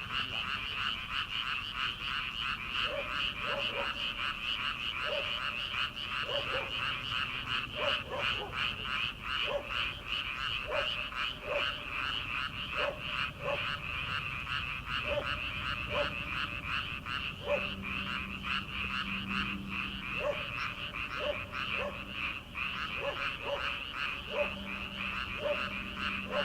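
A dense chorus of many frogs calling from a rice paddy, a steady rapid trilling that never breaks. Short, lower single notes, probably from another kind of frog, cut through it every second or so.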